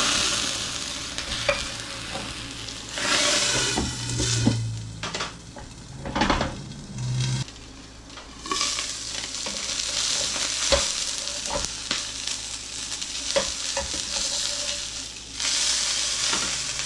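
Breaded chicken breast frying in butter and olive oil in a pan, sizzling steadily; the sizzle drops for a few seconds about halfway, then comes back. Occasional light clicks of metal tongs and the pan lid.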